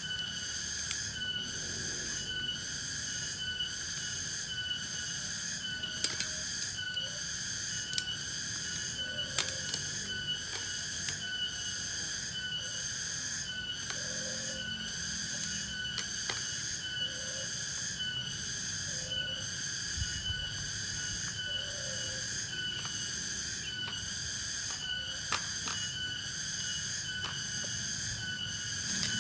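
Cicadas calling in a steady, high-pitched chorus that pulses about once a second, with scattered sharp clicks over it.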